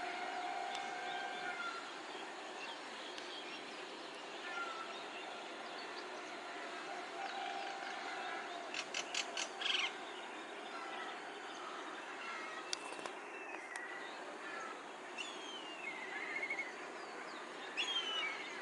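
Common myna calling: scattered whistles and chirps, with a loud run of sharp clicking notes about nine seconds in and more near the end, over a steady background hiss.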